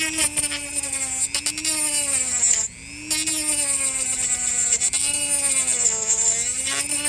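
Dremel rotary tool cutting into a thick dried gourd shell, its whine sagging and recovering in pitch as it bogs under load. The gritty cutting noise stops for a moment about three seconds in.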